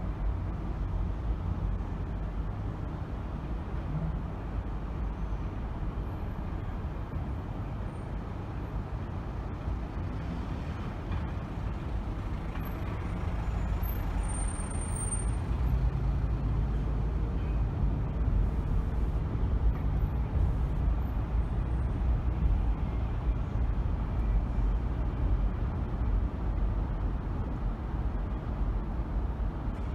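Steady low rumble of a car driving in city traffic, with road and engine noise heard from inside the car. It grows a little louder about halfway through, and a brief high squeal comes just before that.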